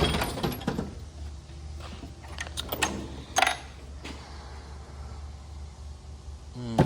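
Metal hand tools clattering and clicking as a toolbox drawer is rummaged through, with several sharp knocks in the first three and a half seconds, the loudest about halfway through. A steady low hum runs underneath.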